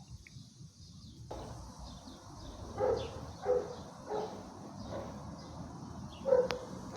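An animal giving a series of five short, fairly low calls over faint background birdsong, the last one near the end the loudest.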